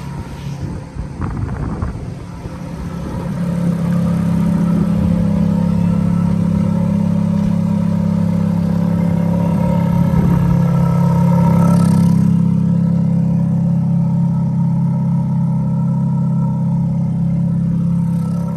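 Ferrari F430's 4.3-litre V8 idling steadily while warming up after a cold start. It grows louder about three and a half seconds in and then holds an even, deep hum.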